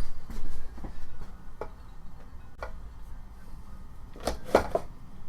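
Scattered light clicks and taps of small metal parts being handled while the trimmer attachment's drive rod is greased, about one a second, with two louder knocks close together near the end.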